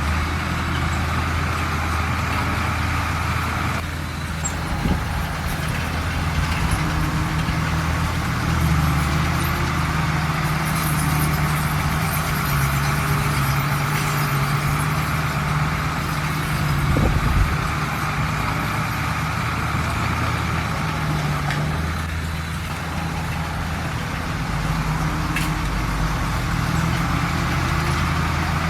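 Heavy diesel engine of earthmoving machinery running steadily, its pitch dropping and rising a few times, with a low thump about seventeen seconds in.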